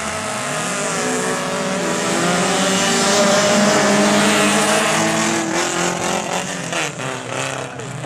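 Autocross race cars' engines running hard at several pitches at once, revving up and down and loudest midway, turning choppier and uneven near the end.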